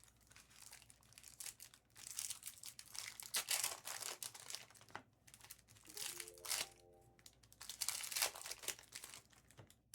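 Plastic trading-card pack wrappers crinkling and being torn open, with cards shuffled in the hands, in irregular soft crackles.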